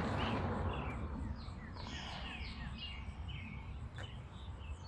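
Small birds chirping: a string of short, falling chirps, several a second, over a steady low background rumble.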